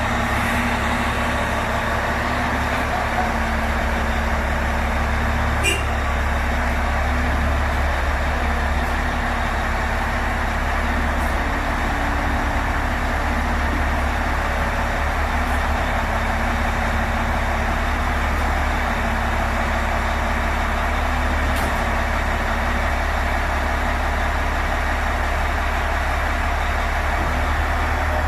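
Heavy diesel engine running steadily with a constant low rumble and hum; a faint click sounds twice.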